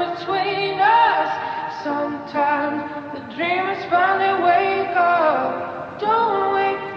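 Song with a female voice singing a melody that has no clear words, the pitch gliding up and down over phrases of about a second.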